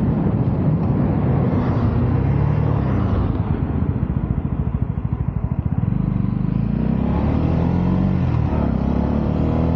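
Honda CB125R's 125 cc single-cylinder four-stroke engine heard close up from the bike. The revs drop to a fast low putter around the middle, then rise again as the bike accelerates away.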